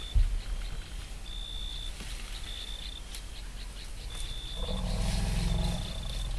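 An elephant's low growling rumble lasting just over a second, about four and a half seconds in, over a high thin whistle that repeats about once a second.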